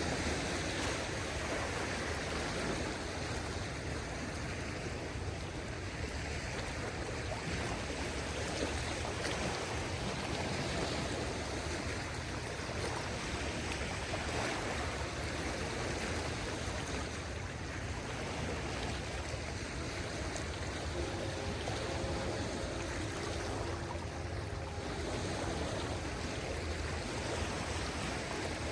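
Calm sea washing gently on a beach: a steady hiss of water with slow, soft swells as small waves come in.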